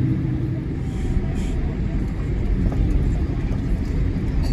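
Steady low rumble of a Boeing 787-8 heard from inside the passenger cabin while it taxis: the engines at idle and the wheels rolling over the taxiway.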